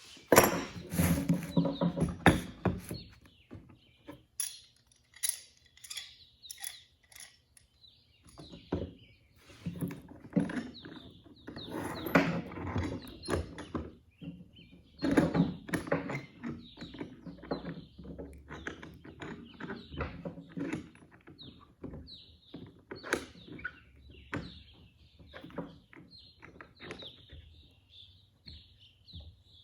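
Knocks, thunks and clattering as wooden boards and clamps are handled and set in place, in uneven bursts with quiet gaps. Birds chirp faintly in the background.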